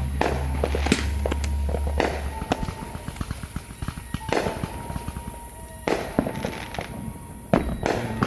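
Fireworks going off: a run of bangs and crackles with several big booms spaced a second or two apart, over a music soundtrack.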